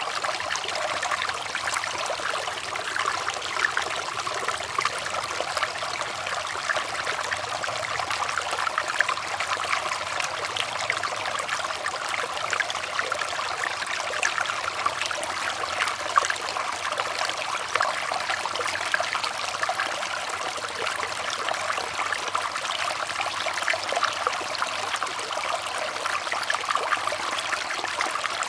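Running water flowing steadily, a dense, even rush full of small splashes and gurgles.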